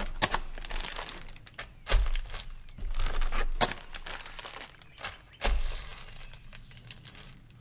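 Plastic bubble-wrap packing being handled and pulled out of a box: crinkling and rustling with several sharp snaps and a few dull thumps.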